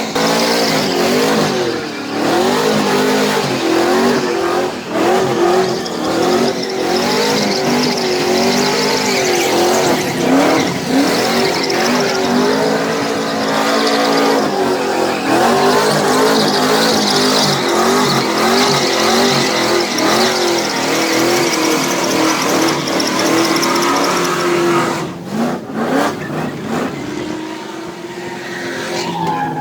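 Burnout truck drifting: its engine revs up and down over and over, with tires squealing, until the revs ease off and the sound drops about 25 seconds in.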